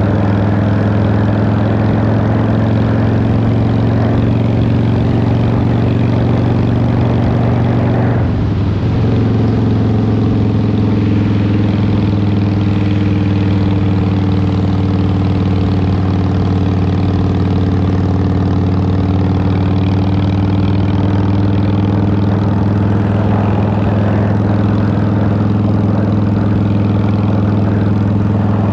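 Harley-Davidson Fat Boy's Twin Cam 88 V-twin running steadily through a Vance & Hines exhaust while riding, with a brief dip in the note about eight seconds in before it settles again.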